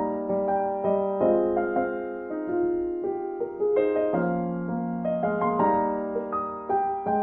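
Background piano music: a gentle melody of struck notes with chords, each note fading after it is played.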